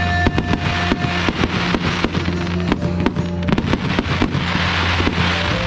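Fireworks going off in quick succession, many sharp bangs and crackles, over music with held notes and a steady bass.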